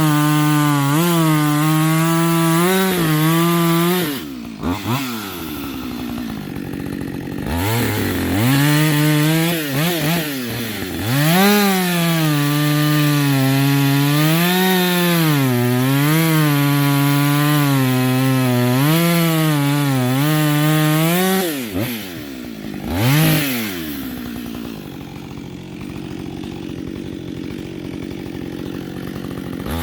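Two-stroke chainsaw cutting firewood at full throttle, its engine note sagging and recovering as the chain bites into the wood. It drops back to idle twice, with short blips of throttle, the second time for the last several seconds.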